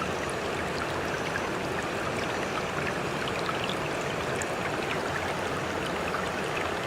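Sea water washing steadily, with small splashes and drips scattered through it.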